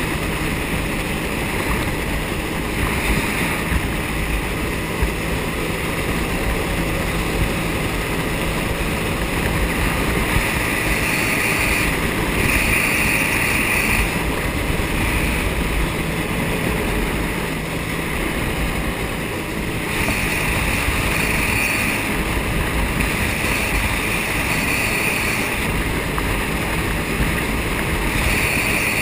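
Jet ski running steadily at speed, with wind buffeting the microphone and water rushing past; a higher engine note swells and eases several times.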